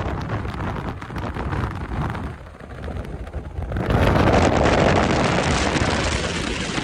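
Wind buffeting the microphone, a rumbling rush that rises with a stronger gust about four seconds in.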